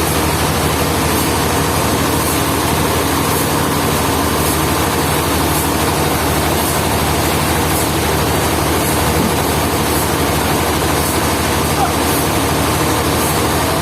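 A heavy engine running steadily at idle, with a faint, light tick repeating about once a second.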